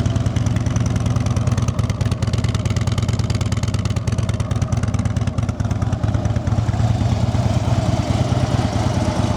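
2013 Harley-Davidson Road King Classic's 103-cubic-inch Twin Cam V-twin idling steadily through its factory exhaust, running pretty quiet.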